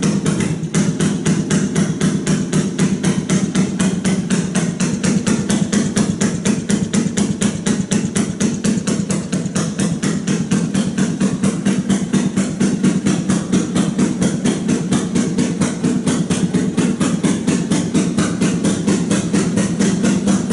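Fairmont ST2 railroad speeder's single-cylinder two-stroke engine running at a slow, even idle, with a sharp pop about five times a second.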